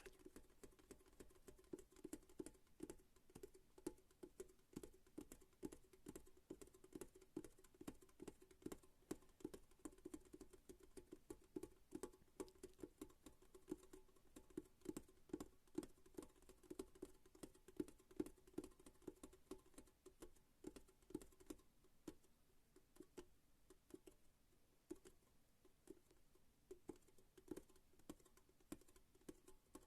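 ASMR tapping: quiet, quick, irregular taps on an object, several a second, with a dull hollow knock to each stroke.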